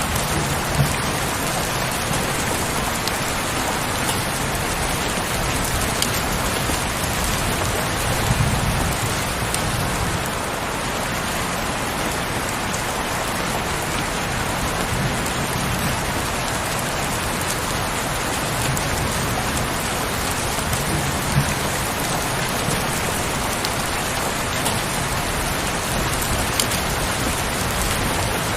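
Heavy rain falling steadily, a dense even hiss of drops with an occasional sharper single drop hit. A low rumble swells now and then underneath.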